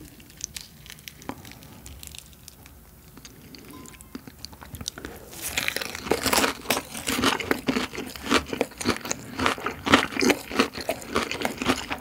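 Close-miked biting and chewing of crispy fried chicken dipped in garlic sauce: a dense run of crunching begins about five seconds in, after a quiet stretch with a few faint clicks.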